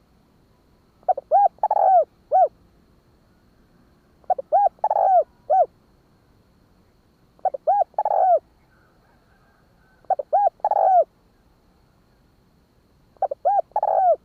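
Spotted dove cooing: five phrases about three seconds apart. Each phrase is two short coos, a longer drawn-out coo, and usually a short closing coo.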